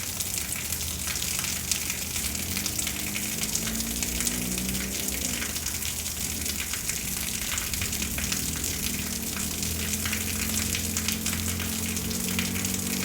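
Rain falling steadily in a thunderstorm: a constant hiss of fine crackling drops. A faint low drone with slowly shifting pitch runs beneath it.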